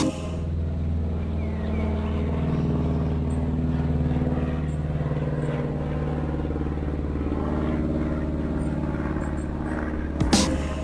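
Steady low machine hum with an even, unchanging pitch.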